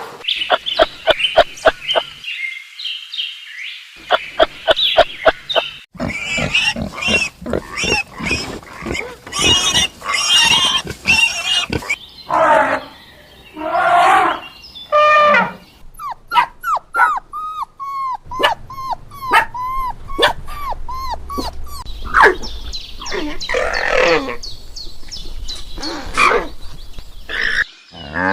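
A series of different animal calls cut one after another, mostly runs of short repeated cries and chirps.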